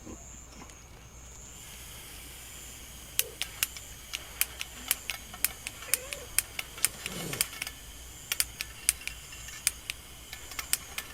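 A run of sharp, irregular clicks, several a second, over a faint steady high-pitched hiss.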